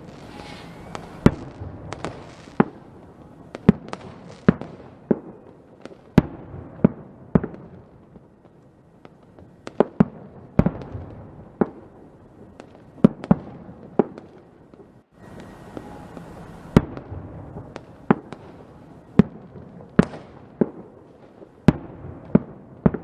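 Fireworks going off: a string of sharp bangs at irregular intervals, about one or two a second, with continuous crackling and short stretches of hiss between them.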